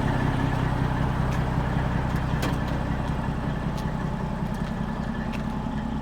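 Vehicle engine running steadily with a low hum, growing slowly fainter.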